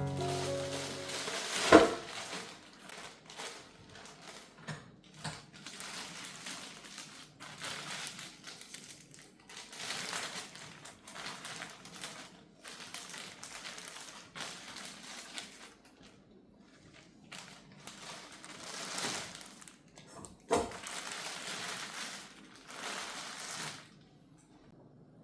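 Household handling noise: intermittent rustling and scraping, with two sharp knocks, one about two seconds in and one near the end.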